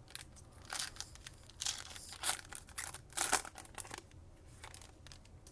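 Foil trading-card pack wrapper being torn open and crumpled, a run of crisp crinkling and ripping that is loudest in the middle and dies down near the end.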